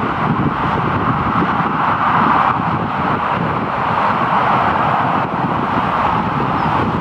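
Jet aircraft engine noise, a steady roar that swells slightly about two to three seconds in.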